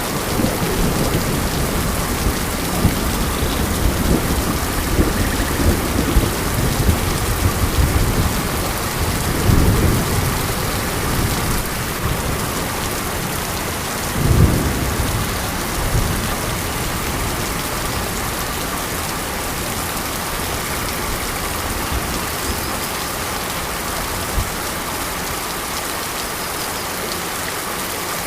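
Monsoon rain falling steadily in a dense hiss, with low rumbles of thunder through the first half and one more about halfway through.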